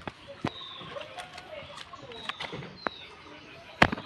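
Birds calling, with quick trills and chirps, over scattered sharp clicks; one loud click near the end is the loudest sound.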